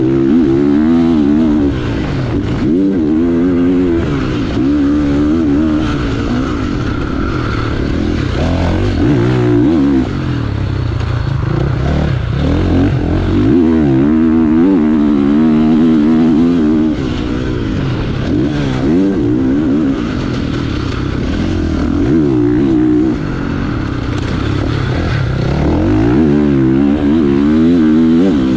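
2025 KTM 450 SX-F motocross bike's single-cylinder four-stroke engine revving up and dropping back again and again as the throttle is opened and shut, heard close up from onboard the bike.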